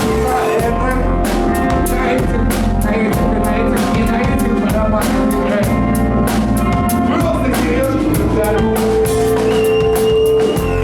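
Live rock band playing: loud distorted electric guitars, bass and a drum kit with steady crashing cymbals, and a held guitar note near the end.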